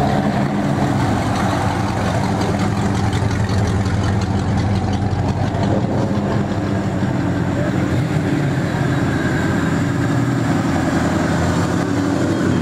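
Ford Mustangs' engines running at low speed as the cars roll slowly past one after another, a steady low engine note.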